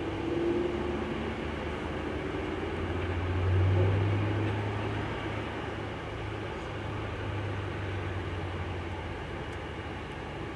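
Audi R8 sports car engines running as the cars pull away, heard from inside a car's cabin. A low engine hum swells to its loudest about four seconds in, then eases.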